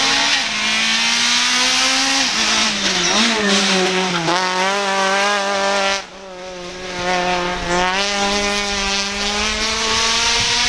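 Citroën C2 rally car's engine revving hard. Its pitch climbs steadily, then drops and climbs again several times as it shifts gear and lifts off.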